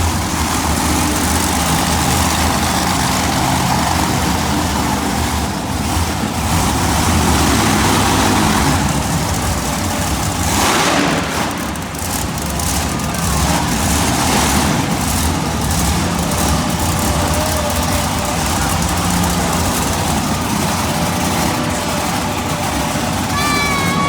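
Monster truck engine running and revving hard during a wheelie run, with a loud rush of noise about eleven seconds in. Music starts just before the end.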